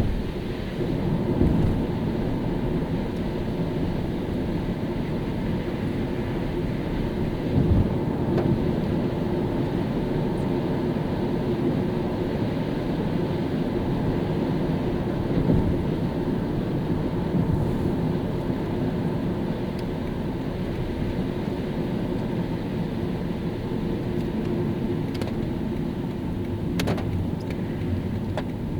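Car driving on a rain-wet road: steady low tyre and road rumble with a faint steady hum. A few brief louder thumps sound about a second and a half in, about eight seconds in and about fifteen seconds in.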